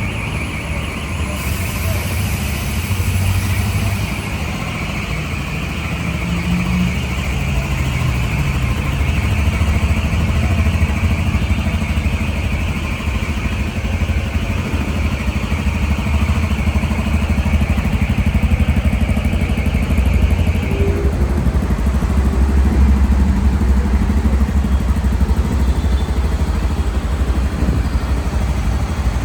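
Honda XRE 300 Rally's air-cooled single-cylinder engine running at a steady idle. A steady higher-pitched hiss sits over it and stops about two-thirds of the way through.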